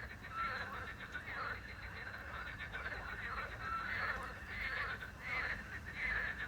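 Night chorus of frogs croaking over one another without pause, with a small owl giving a short whistled note twice, about three seconds apart. Crickets chirp in the background.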